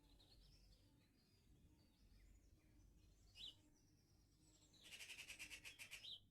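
Songbirds singing: faint chirps, a sharp call about halfway through, then a loud rapid trill of about ten notes a second lasting just over a second, ending with a short upward flourish.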